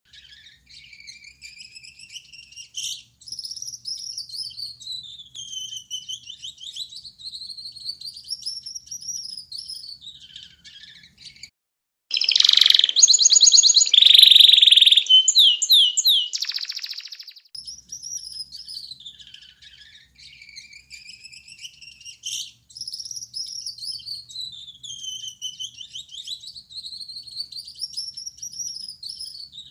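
Male Gouldian finch singing: long thin high notes that waver slowly up and down, broken in the middle by a louder, buzzy, rattling phrase lasting a few seconds.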